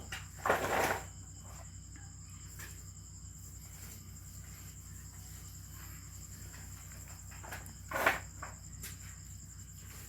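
Steady high-pitched chirring of crickets, with two short louder sounds, about half a second in and again near the end.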